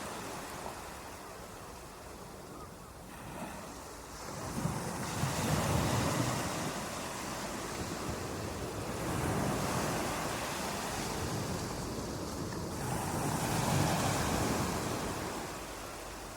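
Ocean surf: waves breaking and washing up the shore, swelling about every four seconds, with some wind on the microphone.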